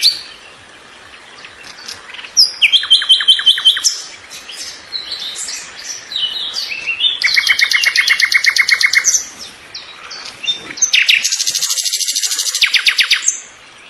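Birds chirping in three loud bursts of fast repeated high notes, each lasting one to two seconds, with softer single chirps between.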